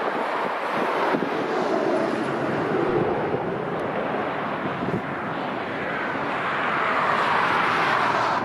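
Jet airliner's engines passing by as a loud, steady rush that swells toward the end, with wind buffeting the microphone.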